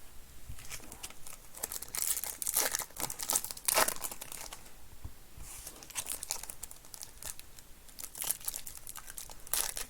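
Trading-card pack wrappers being torn open and crinkled by hand. The crinkling is uneven, loudest from about two to four seconds in and again near the end.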